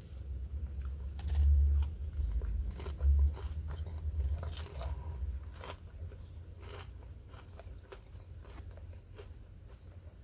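A person biting into food and chewing it close to the microphone, with crunchy clicks of chewing that thin out over the last few seconds and two dull low bumps early on.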